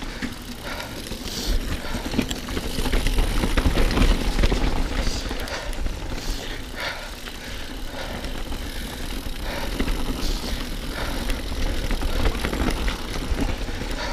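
Mountain bike riding along a wet woodland trail: tyres rolling over mud and roots, with the bike rattling and knocking over the bumps. A low rumble of wind buffets the camera microphone throughout.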